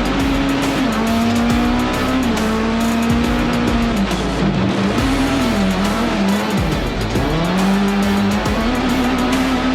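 Rallycross race car engine at full throttle, its pitch holding high, dropping sharply twice in the middle as the driver lifts or shifts, then climbing back, over tyre and dirt noise.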